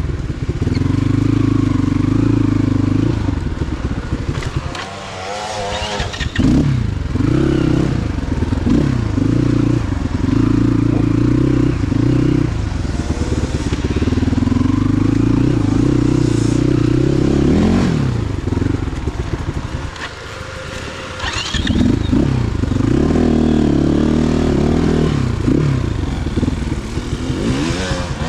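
Motorcycle engine running hard, its revs falling away and climbing back twice, as on a ride over rough ground.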